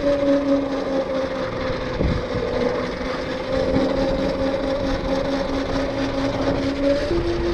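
Electric dirt bike under way: a steady motor whine over road and wind noise, the whine stepping up in pitch near the end.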